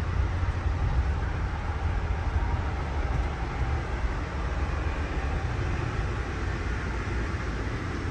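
Amtrak Amfleet I passenger train running along the track, a steady low rumble of wheels on rails with a wash of higher running noise.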